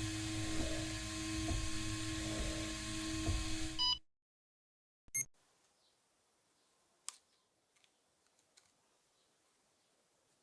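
A motor-driven tool runs steadily with a light regular tick, then cuts off suddenly. A sharp click follows, then a few faint clicks of small parts being handled.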